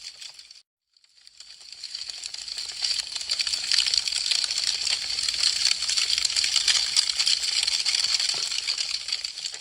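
Wood fire crackling, a dense run of sharp pops and snaps. It fades to silence about half a second in, then fades back up over the next two seconds to a thick steady crackle.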